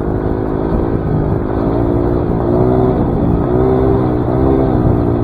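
Dirt bike engine running while riding, the revs rising and falling gently as the throttle is worked.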